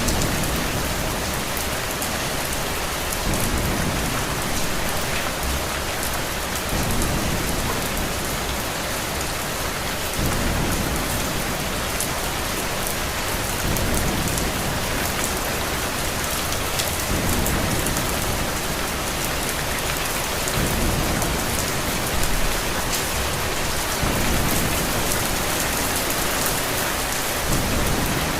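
Steady rain falling on a surface, with a low rumble of thunder that swells and fades about every three and a half seconds.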